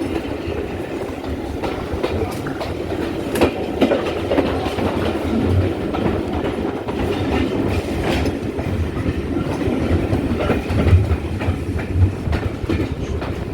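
Steam-hauled passenger train running past, its wheels clicking over the rail joints over a steady rumble.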